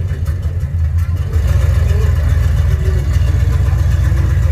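1967 Chevrolet Camaro SS V8 engine running with a deep, steady rumble. It gets louder a little over a second in and holds there.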